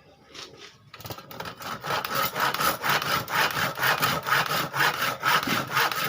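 Hand saw cutting through a block of wood. After a few light knocks, steady back-and-forth strokes at about two to three a second start about a second in.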